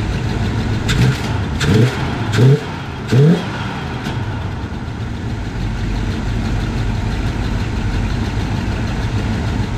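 1973 Cadillac Eldorado's 500 cubic-inch V8 running. It is revved in several quick blips in the first few seconds, then settles to a steady idle. The owner thinks the engine may still have a timing issue.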